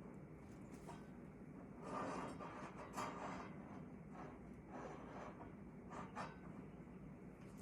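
Handling noises from a square being set against a table saw blade: a few short scrapes and rustles and one sharp tap about three seconds in, over a low steady hum.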